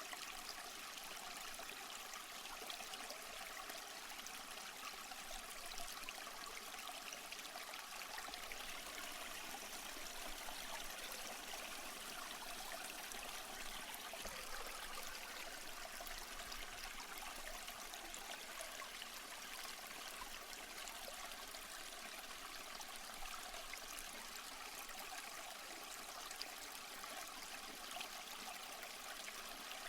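Running water from a backyard pond waterfall, trickling steadily.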